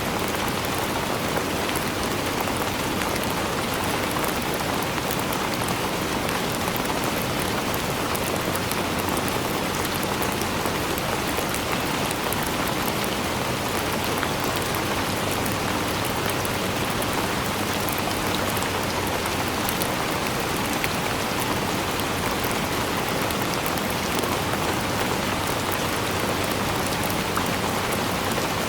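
Steady rainfall, an even hiss of rain with many fine drop patters, without change or pause.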